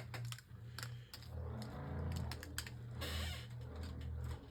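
Light plastic clicks and clatter of Beyblade Burst tops and launcher being handled between battles, with a short scraping rustle about three seconds in, over a low steady hum.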